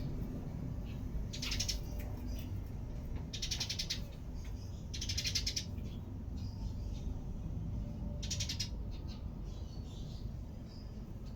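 A small bird calling in short, harsh, raspy bursts, four loud ones about half a second long with fainter calls between them, over a steady low rumble.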